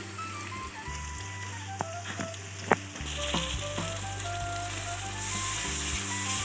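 Onion-tomato masala with ginger-garlic paste sizzling in hot oil in a steel pan. A metal spatula knocks and scrapes against the pan several times around the middle, and the sizzle grows louder about halfway through as the paste is stirred in. Soft background music with a simple melody plays along.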